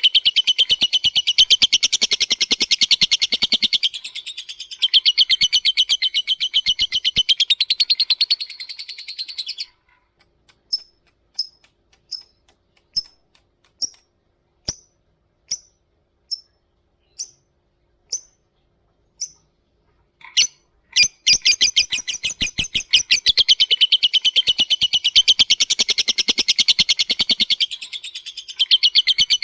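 Lovebird giving its long 'ngekek' chatter, a very fast, even rattle of high chirps. About ten seconds in, the chatter breaks off into 'ngetik': single sharp high ticks, about one every 0.7 s. The long rapid chatter returns near the end.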